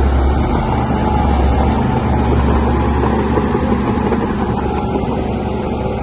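Shantui DH17C3Pro bulldozer's diesel engine running with a steady, low drone.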